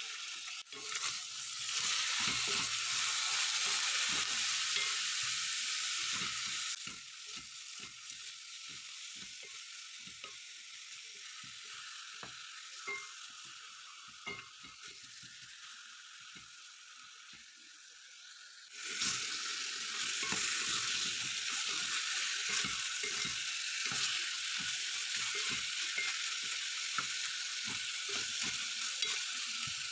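Chicken pieces sautéing in a hot granite-coated pot, with a steady sizzle and a wooden spoon knocking and scraping against the pot as they are stirred. The sizzle dies down for a while in the middle, then comes back strong about two-thirds of the way in.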